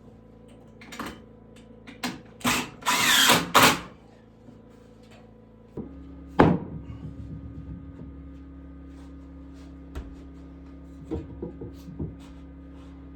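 Woodworking sounds: a few sharp knocks and a short burst of a power drill about three seconds in. From about six seconds a steady low hum starts, with scattered light taps over it.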